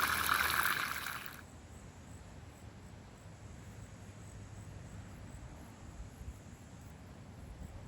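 A rushing, liquid-like sound, such as water being poured or food cooking, cuts off suddenly about a second and a half in. What follows is faint, quiet background.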